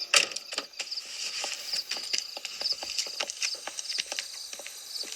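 Crickets chirping in short repeated trills, with a string of irregular footsteps clicking along.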